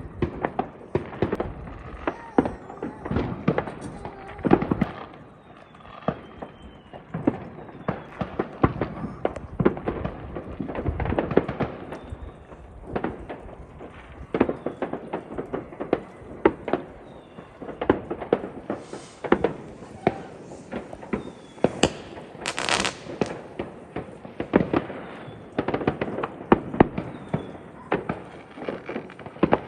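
New Year fireworks going off: a steady run of bangs and crackles, with one brief hiss about three-quarters of the way through.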